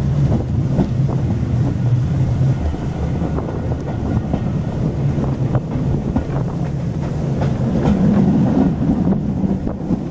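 Heritage railway carriage running at speed, heard from inside at an open window: a steady rumble of wheels on the track with scattered clicks as the wheels pass over rail joints.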